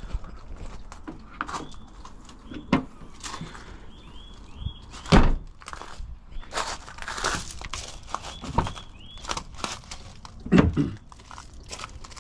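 A series of knocks, clunks and handling noises, with two louder thumps about five and ten and a half seconds in. Small birds chirp in between.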